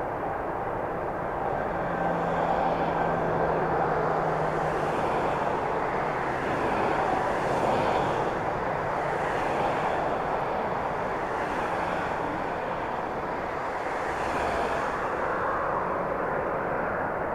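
Jet airliner engines heard across an airfield: a steady rushing noise that gently swells and eases, with a faint low hum for a few seconds near the start.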